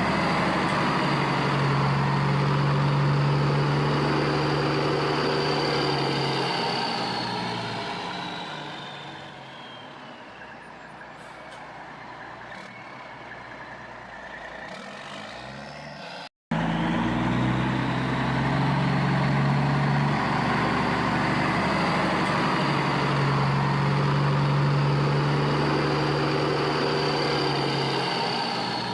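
Heavy truck engine running steadily, fading down partway through, then loud again after an abrupt cut just past the middle.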